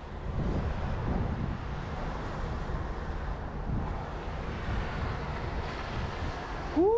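Strong snowstorm wind buffeting the camera microphone: a steady, low rumbling rush of noise. Right at the end a short pitched sound slides up.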